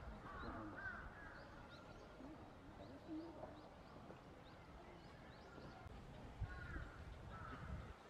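Faint outdoor ambience of wild birds calling in the background: a few arching calls about a second in and again late on, with small high chirps in between. A low rumble runs underneath, and there is a brief thump about six and a half seconds in.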